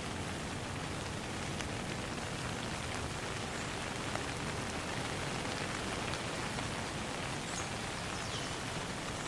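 Steady rain falling, an even hiss of drops. A few faint, brief high chirps sound in the second half.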